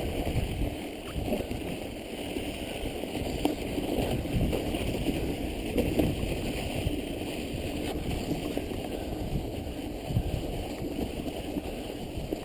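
Steady rumbling noise of a mountain bike being ridden through snow, with wind buffeting the microphone.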